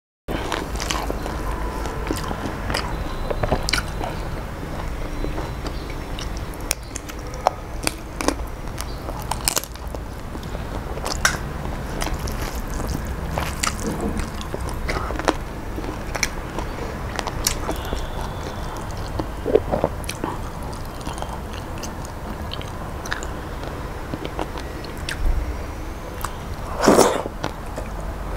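A person chewing a mouthful of rice and fish eaten by hand, close to the microphone. Frequent short sharp clicks run through it, with one louder one near the end.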